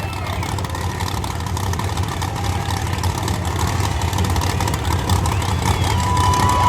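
Monster truck engine running with a deep, steady rumble that grows gradually louder.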